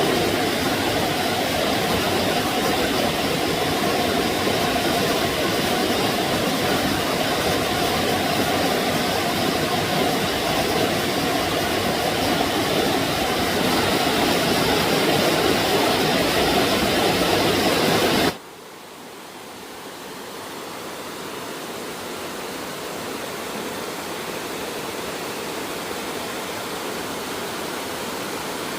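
Steady rush of flowing stream water. About two-thirds of the way through it cuts off abruptly to a much quieter, softer water noise that slowly grows louder.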